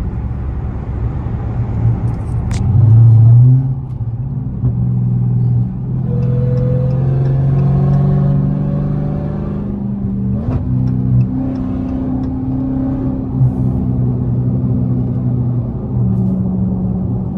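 Dodge V8 muscle car engine under way at highway speed, with a loud surge of throttle about three seconds in and a rising pull from about six to ten seconds, over road and tyre noise.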